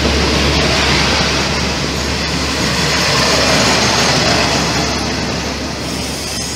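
Passenger train carriages rolling past close by: a steady rush of wheels on rail with a low hum underneath, getting a little quieter near the end.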